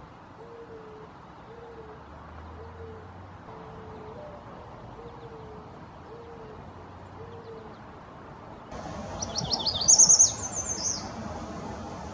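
A bird's low hooting calls, short and evenly spaced about one a second, stopping about seven seconds in. Near the end a loud, fast run of high sliding bird chirps comes in abruptly.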